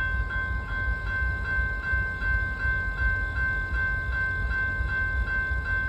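Low, steady rumble of diesel freight locomotives and train, with a steady high-pitched tone that dips about twice a second.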